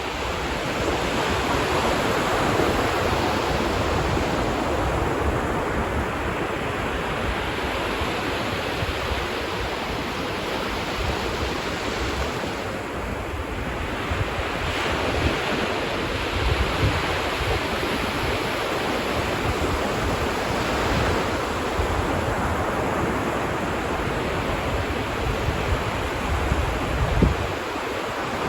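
Ocean surf washing onto a beach, swelling and easing, with wind gusting on the microphone as a low rumble, strongest near the end.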